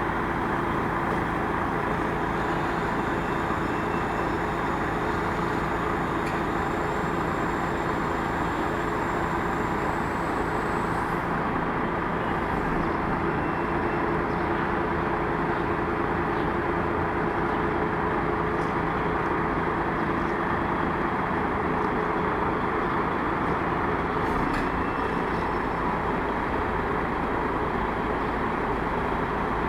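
Crane engine running steadily, a continuous mechanical drone with a few held tones in it.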